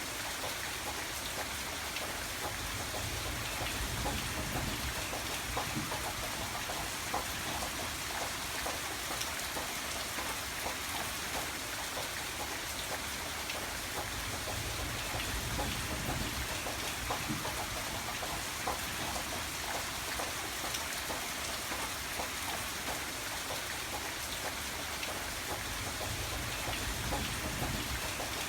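Steady rainfall, with many small drops pattering on surfaces and a low rumble underneath that swells and fades slowly.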